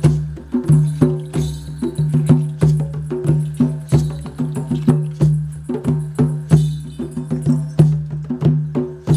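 Live percussion music: many sharp knocking strikes a second over a low pitched tone that sounds again and again, roughly every three quarters of a second.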